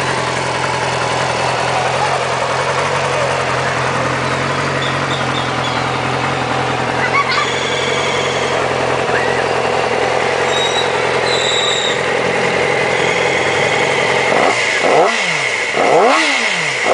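Yamaha R6 (2007) 599 cc inline-four motorcycle engine idling steadily, then blipped a few times near the end, the revs rising and dropping quickly each time.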